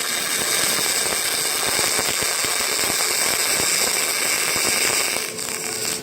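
Robotic arc welding of stainless steel: the welding arc crackles and sizzles steadily, then stops about five seconds in.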